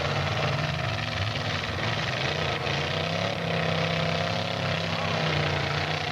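Demolition derby cars' unmuffled engines running loud and steady, with a wavering higher tone in the middle like an engine being revved.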